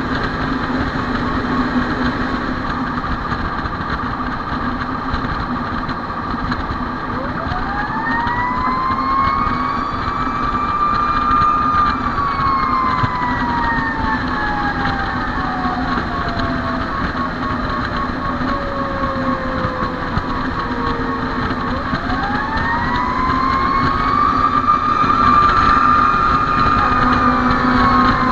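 Fire engine siren winding up to a high pitch, then falling slowly over about ten seconds, and winding up again near the end. Underneath is the truck's steady engine noise.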